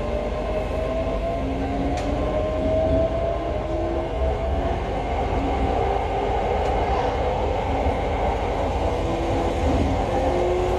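Electric commuter train of the SRT Light Red Line running, heard from on board: a steady rumble of wheels on track with a motor whine that rises slowly in pitch as the train gathers speed.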